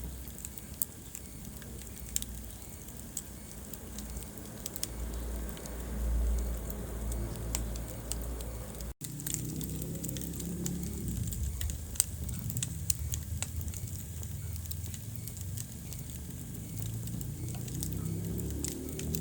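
Wood fire burning in a fireplace: a low, steady rumble of flames with scattered sharp crackles and pops. The sound cuts out for an instant about nine seconds in.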